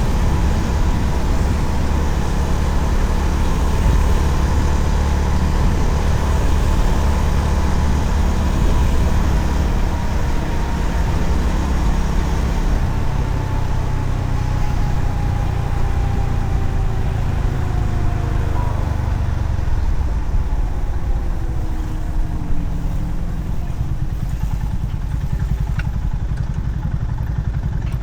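Honda CB350RS single-cylinder engine running on the road under heavy wind rumble on the microphone. Its pitch falls slowly through the first twenty seconds as the bike slows, and the sound eases off a little near the end.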